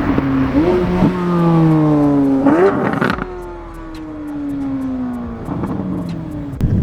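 Car engine revving: the pitch climbs sharply twice, and each time slowly sinks back down as the revs fall away.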